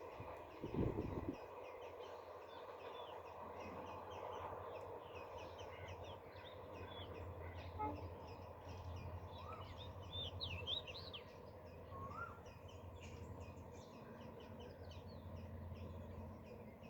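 Birds chirping and calling, with several short rising calls in the second half, over a faint steady low hum. There are a couple of low thumps in the first second or so.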